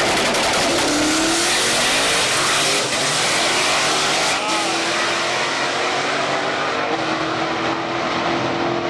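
Race car engine running hard at the drag strip, rising in pitch over the first couple of seconds and then holding steady, under a loud, constant rush of noise.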